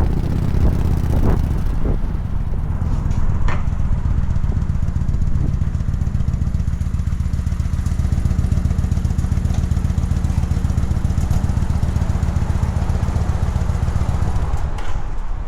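Kawasaki Vulcan 900 Classic LT's V-twin engine running steadily, a low even rumble.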